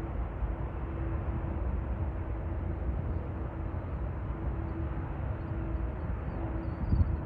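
Jet airliner engines running with a steady rumble, a faint hum coming and going over it, and a short bump near the end.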